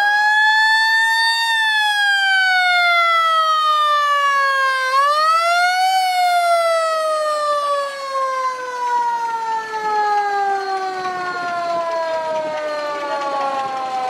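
A siren sounding: its pitch rises, then slowly falls, climbs again about five seconds in, and winds slowly down over the rest of the stretch.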